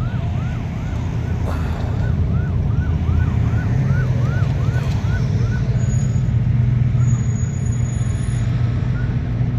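A siren sweeping up and down in pitch about twice a second, over a steady low vehicle rumble; the siren stops a little over halfway through.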